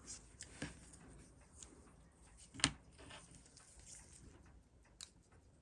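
Faint small clicks and taps of watchmaker's tools on a Seiko 6105 movement while its keyless works are taken out. There is a sharper click about two and a half seconds in and another near the end.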